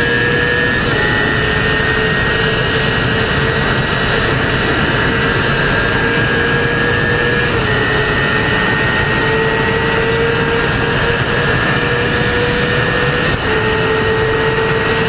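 Sport motorcycle running at high speed, a steady high engine whine under heavy wind rush. The engine note holds nearly level, creeping up and dipping slightly about a second in, near the middle and near the end.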